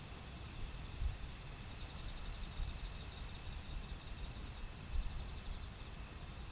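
Insects chirping faintly in rapid pulsed trills, heard in two stretches, over a steady outdoor hiss with uneven low rumbles.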